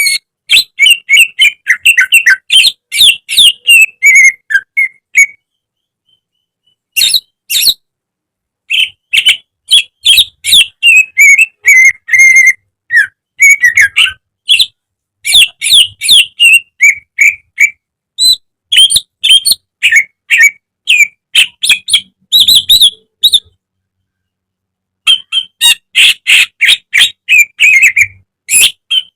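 A green leafbird (cucak ijo) singing loud, fast strings of chirps and whistled notes. The song breaks off twice in the middle for a second or so of silence.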